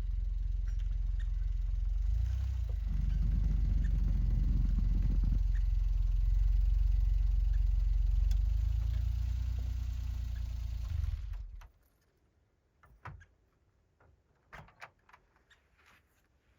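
Kei truck's engine running steadily, then switched off about three quarters of the way through, cutting off suddenly. A few soft clicks and knocks follow.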